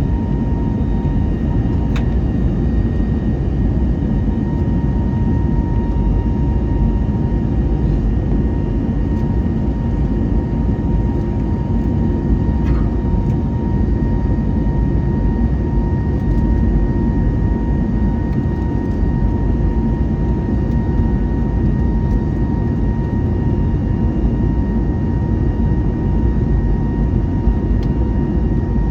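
Steady cabin noise inside an Airbus A321neo (A321-271NX) with Pratt & Whitney PW1100G geared turbofans: a constant low rumble of engines and airflow, with a steady whine on top. Neither pitch nor level changes.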